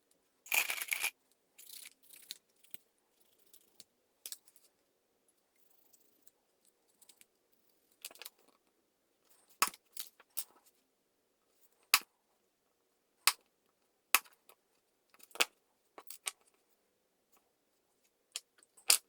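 Scattered sharp clicks and taps of small hand tools handled on a hard work surface while a tiny plastic part is cut and fitted, with a brief scraping rustle about a second in.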